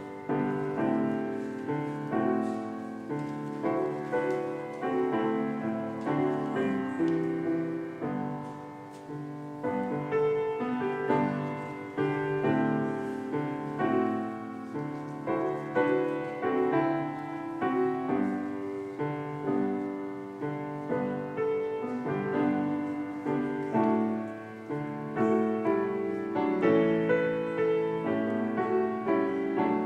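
Piano offertory music: several notes at a time, each struck note dying away, at a gentle pace.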